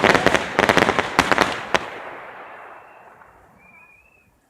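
Fireworks going off: a rapid string of sharp bangs and crackles for about two seconds, then the rumble echoing and fading away.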